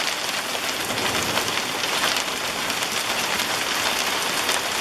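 Heavy hail falling, a dense steady clatter of many small ice pellets striking the ground and surrounding surfaces.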